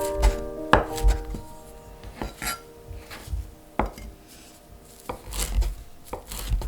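Knife cutting vegetables on a cutting board: irregular knocks of the blade against the board, spaced unevenly, with piano music fading out after the first second or so.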